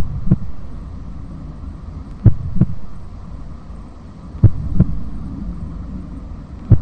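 Heartbeat sound effect: four double thumps in a lub-dub pattern, about two seconds apart, over a steady low hum.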